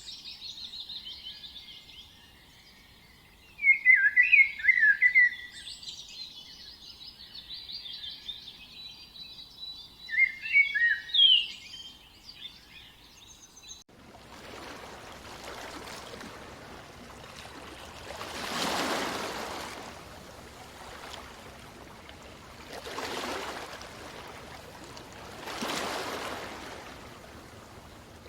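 Small songbirds chirping and calling in quick high bursts for about the first half. Then the birds stop abruptly and a rushing, surf-like noise takes over, swelling and fading four times, a few seconds apart.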